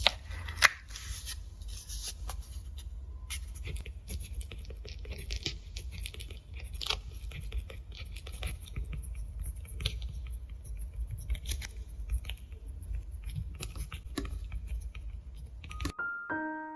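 Close-up handling sounds of scissors snipping, with scraping and tearing or rustling of material, in many short irregular strokes. A sharp snap under a second in is the loudest.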